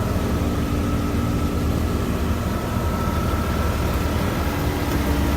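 A 2003 Mercedes-Benz ML320's 3.2-litre V6 idling steadily, a low even rumble with a faint constant hum over it.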